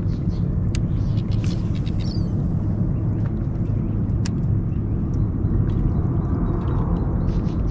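Boat's outboard motor running steadily, with a few faint ticks on top.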